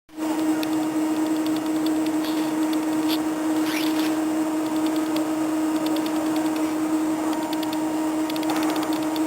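Steady electrical hum with one strong fixed tone, typical of a SEPTA Silverliner IV electric railcar standing with its equipment running. A brief high squeak glides down and up about four seconds in.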